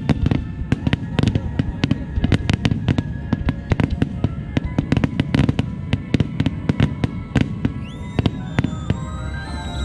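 Starmine fireworks going off in rapid succession: a dense string of sharp bangs and crackles, several a second, over a low rumble. Near the end a high whistling tone rises, holds, and falls away.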